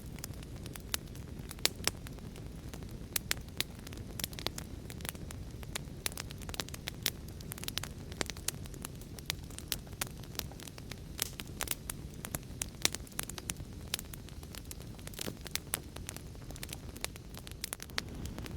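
Wood fire crackling: a steady low rush of flames with irregular sharp pops and snaps, several each second.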